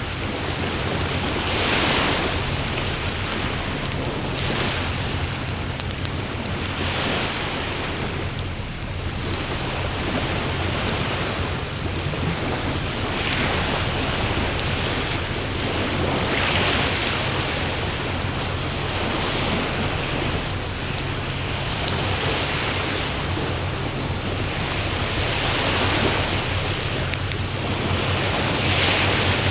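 Wood fire burning in a fire pan: a steady rushing of flames that swells and eases every few seconds, with frequent small crackles and pops. A steady high, thin tone runs underneath.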